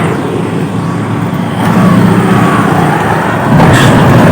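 A motor vehicle running on the road, heard from on board, with its engine and road noise steady and a louder swell about three and a half seconds in.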